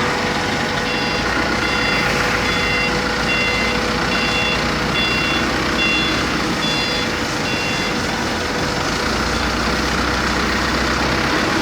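A repeating electronic warning beeper, about ten short beeps a little under a second apart, stopping about eight seconds in. Under it runs the steady din of industrial plant machinery with a constant hum.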